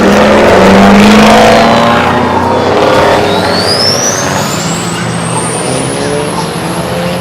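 Loud vehicle engine revving hard, its pitch climbing over the first two seconds, then easing off. A thin high whine then rises steadily in pitch over the next few seconds.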